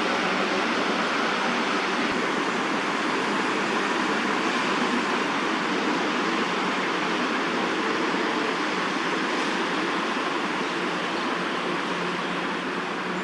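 Steady, even background noise with no distinct events and no change in level.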